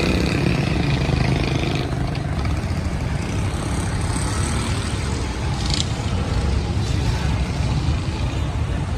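Road traffic: a steady low rumble of vehicle engines, with a brief hiss about six seconds in.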